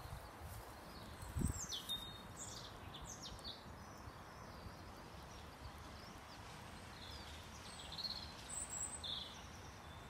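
Small birds chirping in short high calls, in two bouts, over a faint steady outdoor background. A single low thump about a second and a half in.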